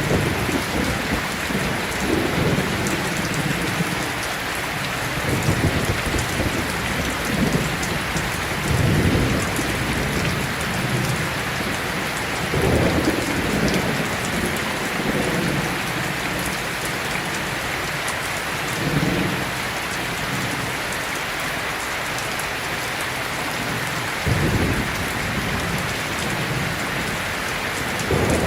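Steady heavy rain with low rumbles of thunder rising and fading every few seconds.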